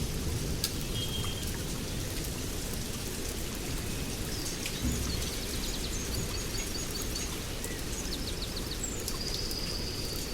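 Steady rain with a low rumbling hiss, and songbirds calling over it: a short high note about a second in, trills and quick runs of notes later on, and a long, steady high whistle near the end.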